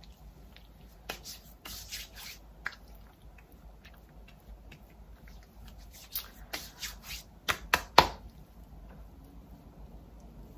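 Hands rubbing and patting toner onto skin, with scattered short taps and rustles; a quick run of taps comes near the end, the loudest about eight seconds in.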